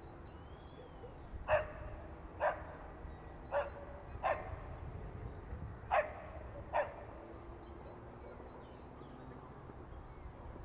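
A dog barking, six short barks in uneven pairs over the first seven seconds.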